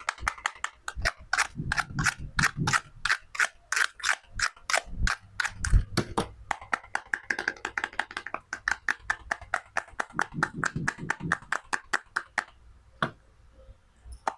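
Toy food cutting set being worked with a plastic knife: a rapid run of sharp plastic clicks and taps, about four a second, thinning to a few single taps near the end.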